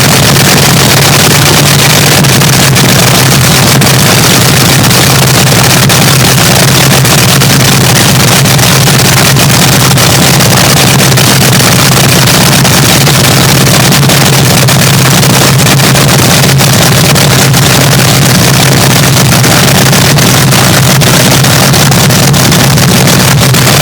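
Swamp Rat III Top Fuel dragster's nitro-burning, supercharged Chrysler Hemi cackling at a steady idle, very loud and overloading the microphone.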